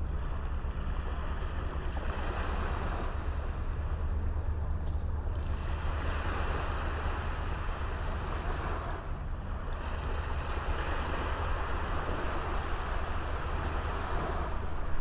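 Small sea waves washing onto a beach: a steady surf wash that swells and eases every few seconds, over a steady low rumble.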